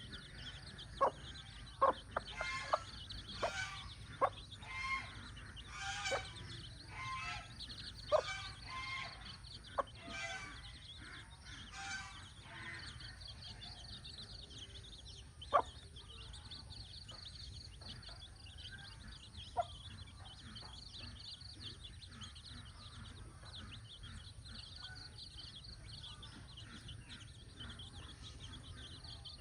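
Mother hen clucking with her chicks peeping: many short calls close together for the first half, then mostly a steady high-pitched chirring with a few sharp clicks.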